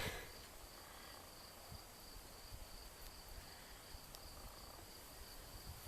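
Faint, steady, high-pitched chirring of insects in a field, most likely crickets.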